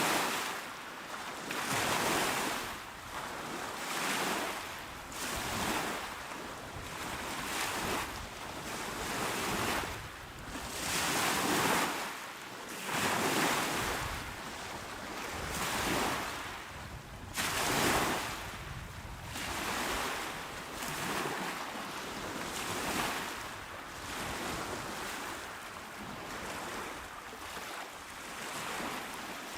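Small, calm waves breaking and washing onto a shore, the surf swelling and fading every second or two.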